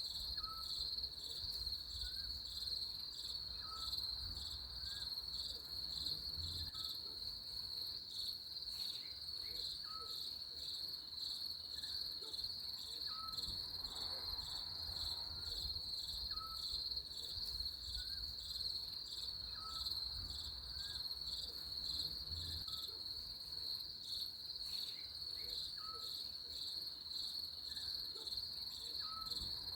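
Crickets trilling steadily in a continuous high, finely pulsed chorus. A faint short note repeats about once a second underneath.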